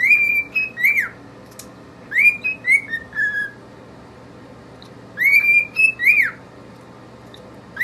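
Pet parrot whistling a short phrase of sliding, swooping notes, repeated three times with pauses between.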